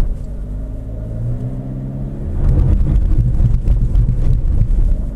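The 2016 Toyota RAV4's 2.5 L inline-four engine works under load as the all-wheel-drive SUV, its AWD lock engaged, creeps up a loose, wet gravel slope. The engine gets louder about two seconds in, but the vehicle is not managing to get over the crest.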